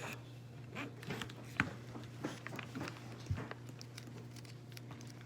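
Faint rustling and small clicks of a sticker and plastic toy-truck parts being handled, with two sharper clicks about one and a half and three seconds in, over a steady low hum.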